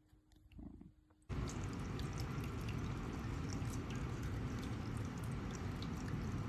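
Steady running and splashing of water in a stainless steel pet water fountain, with small drip-like ticks over it. It starts abruptly about a second in.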